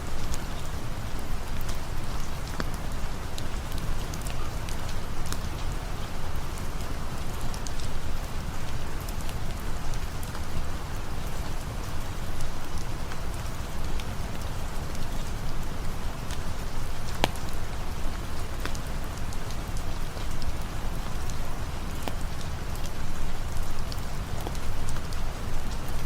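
Steady rain falling, a dense even patter with a low rumble underneath and scattered sharp ticks throughout.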